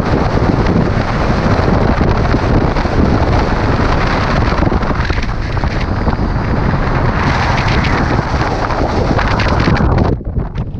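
Strong mountain wind buffeting the microphone in loud, continuous gusts, easing off abruptly just before the end.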